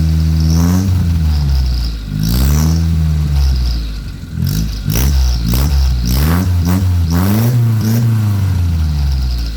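Petrol car engine revved through an aftermarket oval 'cung' exhaust muffler, in repeated throttle blips with the pitch climbing and falling back. The blips come quicker in the second half.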